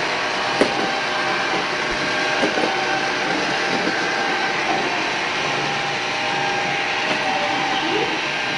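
Milagrow robotic vacuum cleaner running on the floor: a steady whirr of its suction motor and brushes with a faint whine, and a few light clicks along the way.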